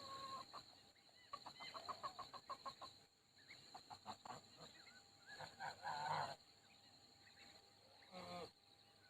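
Faint calls of farmyard poultry. There is a quick run of about ten short, evenly spaced calls in a row, then scattered calls about halfway through and again near the end.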